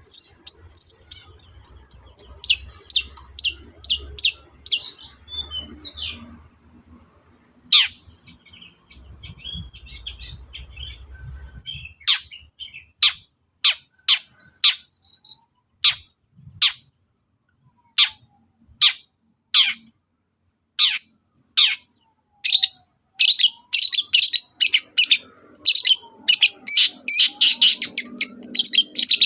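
Long-tailed shrike (cendet) singing: a quick run of sharp, downward-sweeping notes, a few seconds of near quiet, then single sharp notes about one a second that speed up into a fast, dense chatter near the end.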